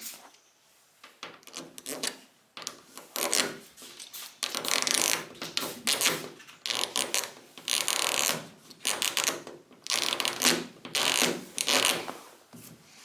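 Razor blade scraping a run in hardened automotive clear coat: a series of short scraping strokes with brief pauses between them.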